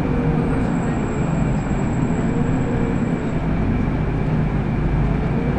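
City bus engine running and road noise under way, heard from inside the passenger cabin: a steady low drone with no breaks.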